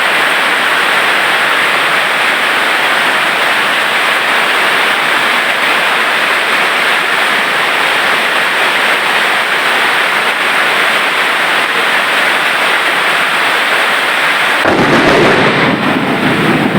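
Heavy rain pouring down in a steady loud hiss; near the end a deeper rumble joins it.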